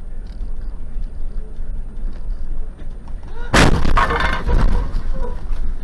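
Car collision heard from a dashcam: a steady low rumble of the moving vehicle, then a sudden loud crash about three and a half seconds in, with crunching and clattering for about a second after the hit.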